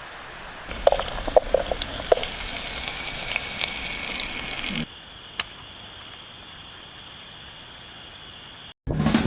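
Food sizzling in a hot pan, with a run of sharp pops and crackles, for about four seconds before it cuts to a quieter steady hiss.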